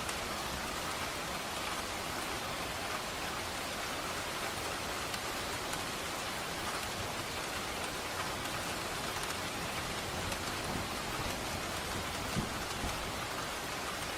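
Steady rain falling on surfaces, an even hiss with scattered drop patter, and a few faint low thumps near the end.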